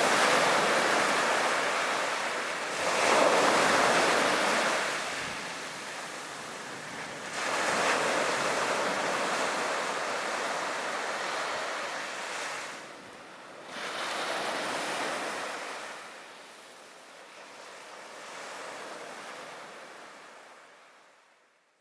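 Sea waves breaking and washing up the beach in surges every few seconds. The surf fades out near the end.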